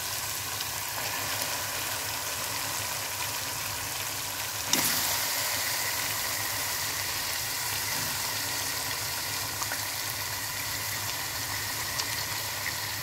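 Raw chicken pieces sizzling steadily in hot oil in a karahi on a low flame. A little under five seconds in the sizzle jumps louder as more chicken goes into the oil, and it stays at that level.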